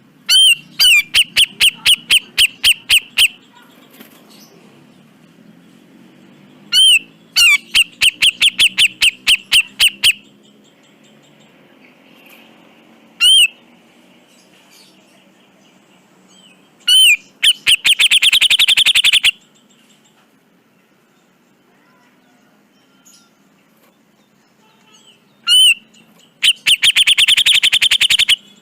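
Cucak jenggot (grey-cheeked bulbul) giving loud, harsh call bursts, each a single note followed by a fast run of repeated notes. The runs come about four a second at first and almost run together in the later bursts.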